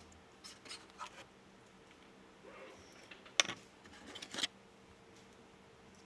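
Scattered clicks, scrapes and rubbing of small objects or tools being handled, with a sharp click about three and a half seconds in and a short run of scrapes about a second later, over a faint steady hum.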